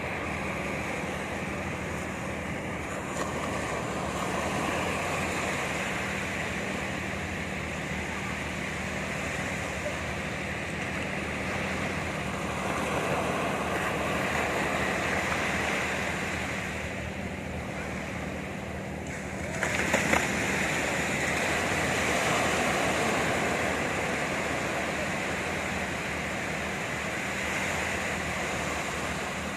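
Sea surf breaking on a beach, a steady wash that swells and eases every few seconds, with a couple of brief knocks about two-thirds of the way through.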